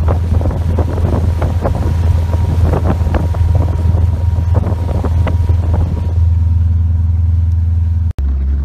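Motorboat engine running with a steady low drone, wind buffeting the microphone and irregular knocks, most of them in the first six seconds. The sound drops out for an instant about eight seconds in.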